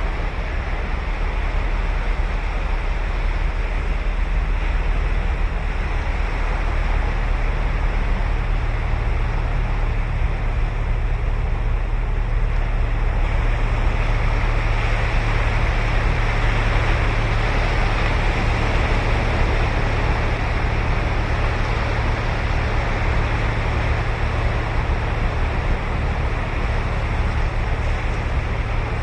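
Ocean surf breaking and washing up a sandy beach in a continuous rush, swelling louder in the middle, over a steady low rumble.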